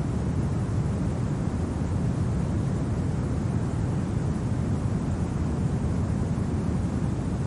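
Steady winter wind, an even low rumble with a softer hiss above it and no separate gusts or crackles.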